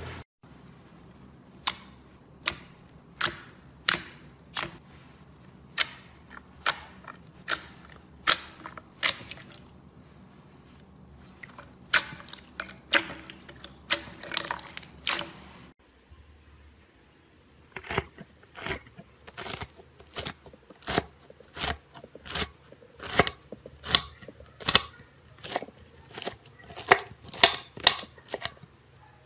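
Slime being pressed and poked, making a series of sharp popping clicks about one or two a second; about halfway through the clicks come quicker and closer together.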